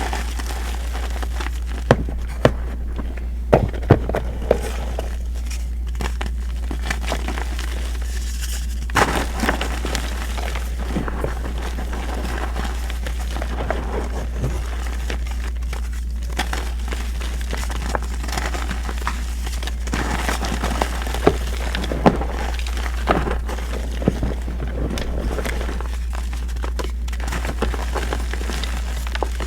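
Reformed gym chalk being crushed and crumbled by hand: irregular crunches and crackles with a few sharper snaps, over a steady low hum.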